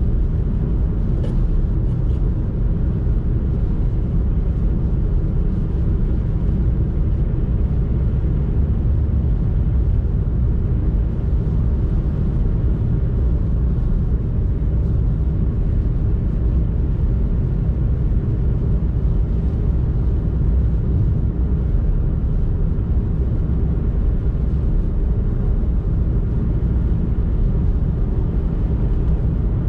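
A car driving: a steady low rumble of engine and tyre noise that holds even throughout.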